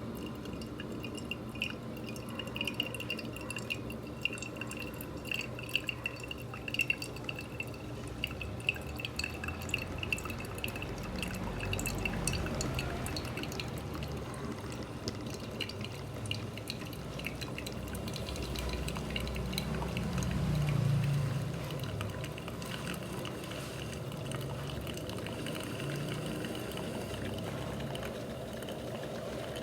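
Small steam-driven espresso machine brewing, with coffee dripping and trickling into the cup, the machine gurgling, and a low rumble that swells twice, loudest about twenty seconds in.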